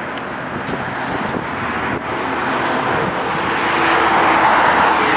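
A car passing on the road, its tyre and engine noise growing steadily louder as it approaches.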